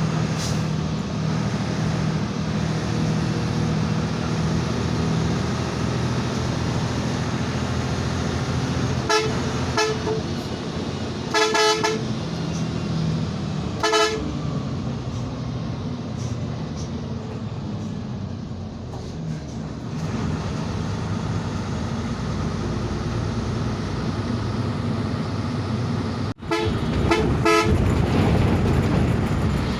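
Hino 1J bus engine running steadily, with loud vehicle horn honks: a few short blasts around the middle and again near the end.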